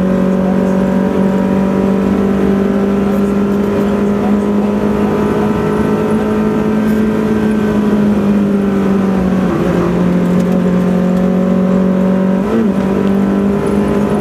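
Rally car engine running hard at steady high revs, heard from inside the cabin, its note easing down slowly and then dipping briefly twice, about nine and a half and twelve and a half seconds in.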